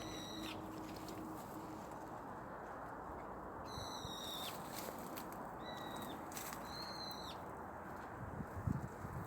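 A bird calling four times, each call high and drawn out for under a second and ending with a drop in pitch, over a steady rushing background. A few low thumps come near the end.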